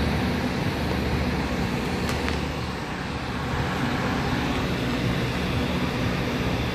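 A vehicle engine running steadily with a low drone, over a constant rumble.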